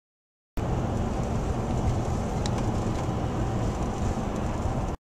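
Dirt bike engine running steadily while riding, heard as a dense low rumble. It cuts in abruptly about half a second in and cuts off just before the end.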